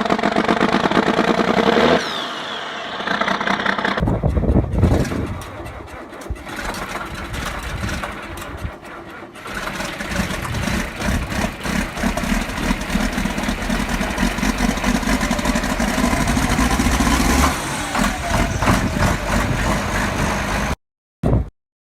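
John Deere diesel tractor engines cold-starting. A high whine falls away about two seconds in, an engine catches with a sudden heavy low sound about four seconds in and keeps running, revving up briefly near the end before the sound cuts out.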